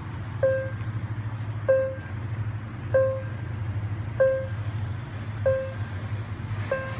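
Railway level-crossing warning bell ringing, six even dings about a second and a quarter apart, over a steady low engine hum.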